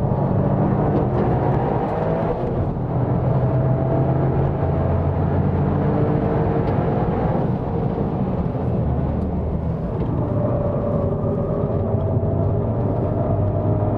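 GRMN Yaris's 1.6-litre turbocharged three-cylinder engine pulling hard on the race track. Its revs climb and drop repeatedly as it accelerates and changes gear.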